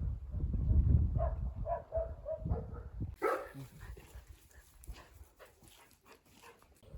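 A dog whimpering and yipping in a run of short, high calls, with one louder yelp about three seconds in, followed by faint scattered clicks.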